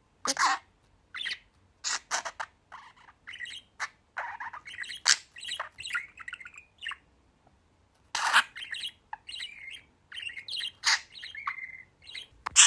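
A small tame bird chirping and squawking in a rapid, irregular run of short calls.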